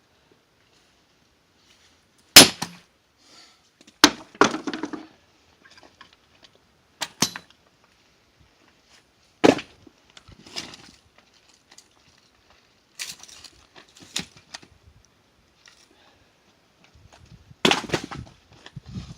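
Heavy tool strikes on firewood logs being split, about seven blows a couple of seconds apart, the loudest early on, some followed by a short crackle as the wood splits and pieces fall.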